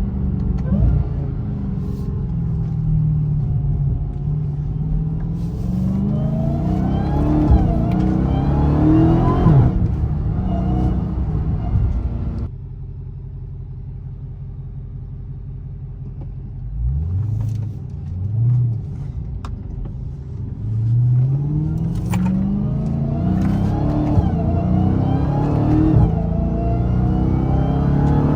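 Dodge Charger Hellcat Redeye's supercharged 6.2-litre Hemi V8 accelerating hard, its pitch climbing through the gears, with the stock mid mufflers still fitted. About twelve seconds in the sound drops abruptly to a quieter steady engine hum. Two short revs follow, then another long pull rising through the gears near the end.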